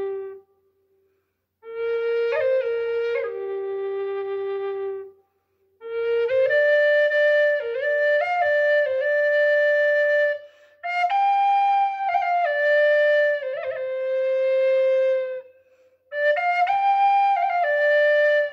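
Solo flute playing a slow melody in phrases of long held notes decorated with quick grace-note flicks, with short pauses for breath between phrases.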